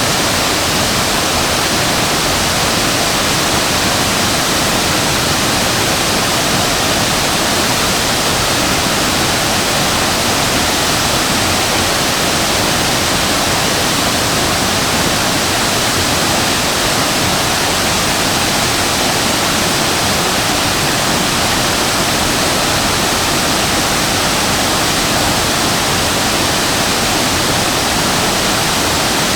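Shasui Falls waterfall pouring steadily: an even, unbroken rush of falling water with no change in level.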